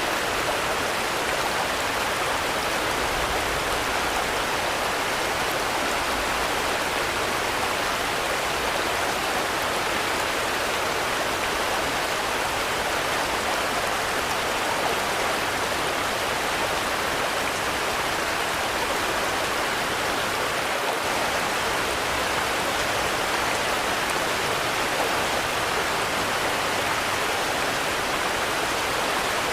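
Steady rain falling: an even, continuous hiss of drops with no thunder and no change in strength.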